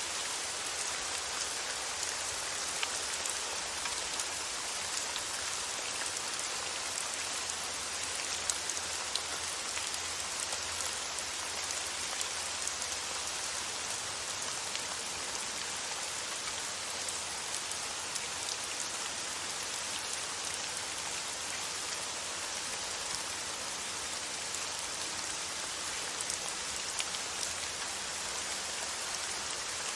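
Steady rain falling on a surface: an even hiss of rain with scattered small drop ticks.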